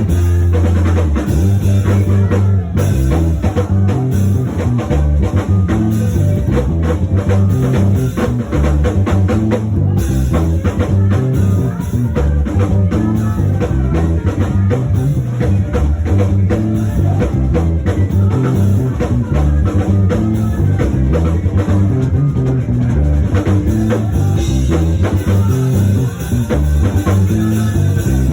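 Instrumental band music: a drum kit, bass guitar and electric guitar playing together with a steady beat and a prominent bass line.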